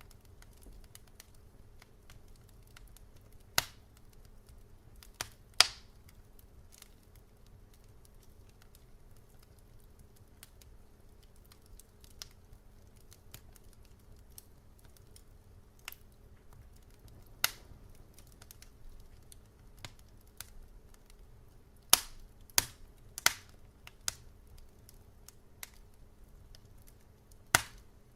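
Wood fire crackling: scattered sharp pops and snaps with quiet gaps between them, several coming close together about three-quarters of the way in, over a faint steady low hum.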